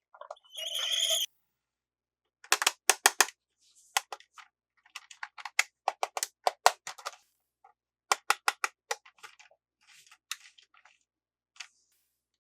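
Handling of toy packaging: a brief rustle, then sharp plastic clicks and snips in quick runs of three to five, with pauses between.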